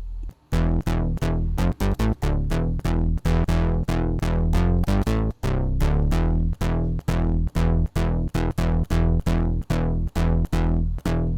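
Sylenth1 soft synth playing a pulse-width-modulated square-wave patch, two layers an octave apart with a filter on it, in short repeated notes at about three a second. The sound drops out briefly just under half a second in.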